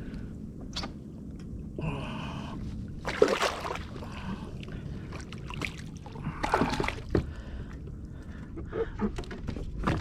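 Water splashing and sloshing around a kayak as a hooked redfish is fought close alongside, with a few scattered knocks and rattles.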